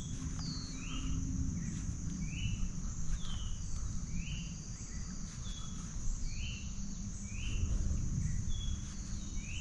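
Outdoor marsh ambience: a steady high insect drone, with a bird repeating short chirping notes a little more than once a second, some slurring down and some rising, over a low rumble.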